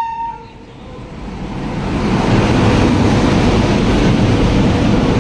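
A train horn cuts off within the first half-second, then the rumble of a passing express train builds over about two seconds and holds steady as its coaches rush by.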